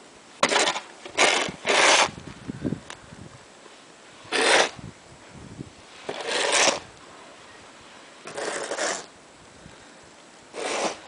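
Snow shovel scraping and cutting into deep snow in short strokes: three quick strokes close together, then one every couple of seconds.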